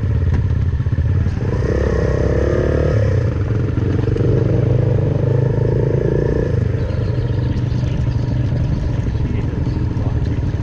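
Suzuki Van Van 125's single-cylinder four-stroke engine running steadily under way through an aftermarket full exhaust. The engine note shifts up and down a few times as the throttle changes.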